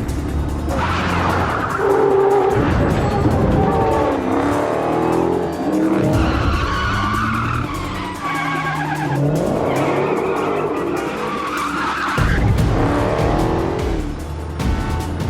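Cars in a high-speed chase, their engines revving up and down and their tyres squealing, over film score music.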